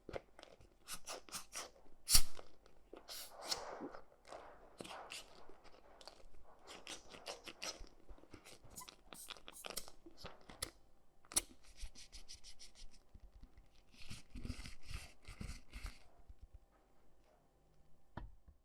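Close-up handling noises of small objects: irregular crunching, clicking and scraping, with one sharp click about two seconds in, dying away near the end.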